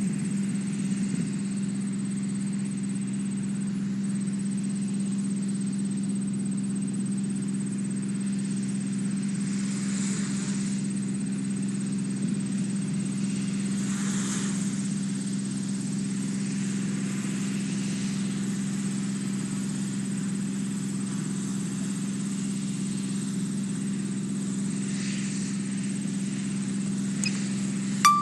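Camera drone's propellers humming steadily as it hovers and flies, with one sharp click near the end.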